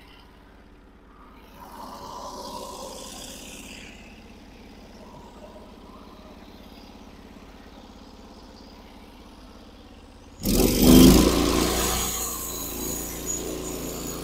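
Norwood HD36 sawmill's engine running low and steady, then about ten seconds in it jumps suddenly to a loud run, peaks, and settles to a steady, louder drone as the mill is brought up for a cut.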